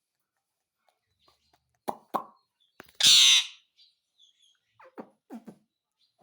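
Ringneck parrot making short popping clicks, a loud harsh squawk about three seconds in, then a few more pops.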